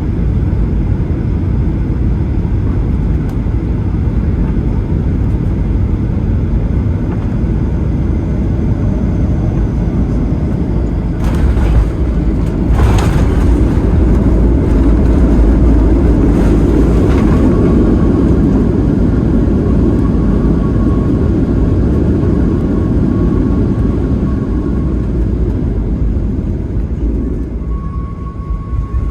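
Boeing 737-800 cabin noise: a steady engine and airflow rumble, broken about halfway through by two sharp thuds roughly a second and a half apart as the main gear touches down hard and bounces. A louder rush follows for several seconds as the jet decelerates on the runway, with a faint steady high tone, and the noise eases off near the end.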